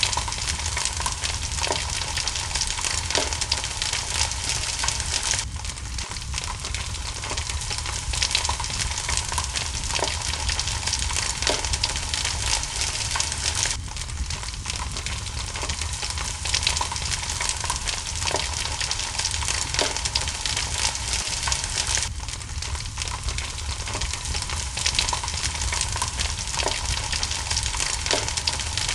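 Steady hiss of rain mixed with a wood fire crackling, with frequent small pops. The bed of sound eases briefly about every eight seconds.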